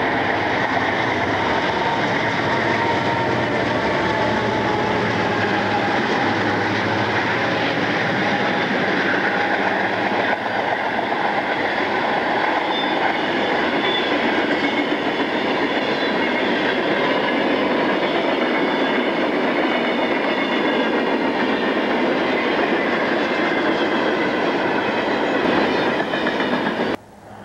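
Diesel locomotives and a train running past close by: a loud, steady rush of engine noise and wheels on rail, with a few steady tones on top. The sound changes about ten seconds in and cuts off suddenly near the end.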